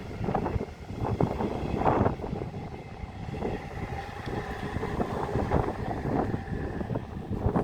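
Wind buffeting the microphone in irregular gusts. Under it, a faint steady drone in the middle seconds, typical of a passing vehicle.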